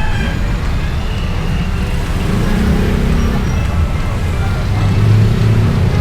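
Motorbike engine running with road and traffic noise while riding in congested traffic, a steady low rumble that swells near the end.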